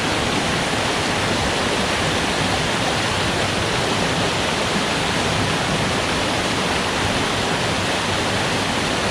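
Small stream waterfall, water rushing and splashing in a steady, unbroken wash.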